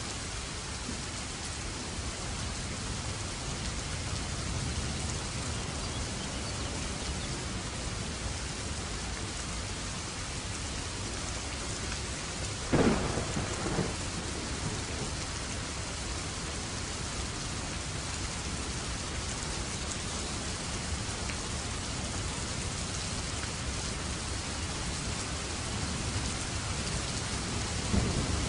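Steady rain falling, with a sharp thunderclap about halfway through that trails off in a short rumble. Thunder begins to rumble again near the end.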